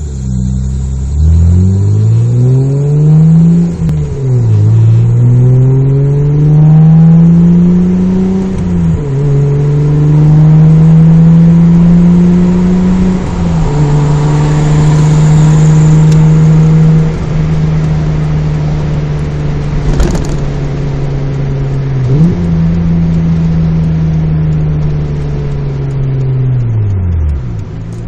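Mazda MX-3 GS's 1.8-litre V6 heard from inside the cabin through a 2 1/4-inch exhaust with a test pipe in place of the catalytic converter and a Magnaflow Street Series muffler. The engine note climbs under acceleration and drops sharply at upshifts about 4, 9 and 13 seconds in, then holds steady while cruising. It shifts again about 22 seconds in and winds down as the car slows near the end.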